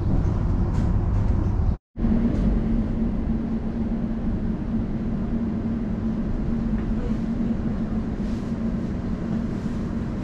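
Elizabeth line Class 345 train running, heard from inside the carriage: a steady rumble with a steady low hum. The sound drops out briefly about two seconds in.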